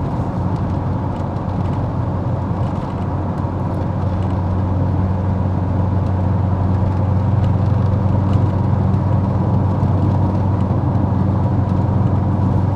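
Callaway twin-turbo C4 Corvette's V8 running steadily while cruising, heard from inside the cabin with road noise, growing a little louder partway through. The engine is running smoother now that a burnt plug wire causing a cylinder-6 misfire has been replaced.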